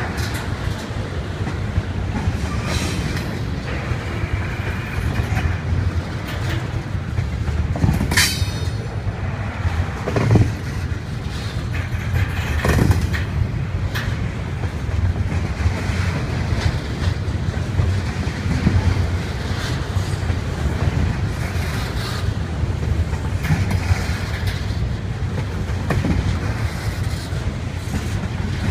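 Double-stack container train's well cars rolling past: a steady low rumble of steel wheels on rail with scattered clanks and clicks, and a brief high squeal about eight seconds in.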